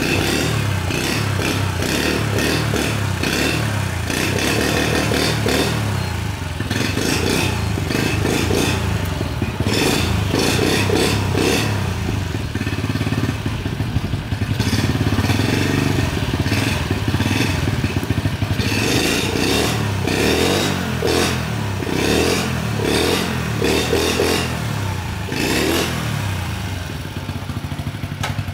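1982 Honda Super Cub's 50 cc single-cylinder four-stroke engine running steadily after being started.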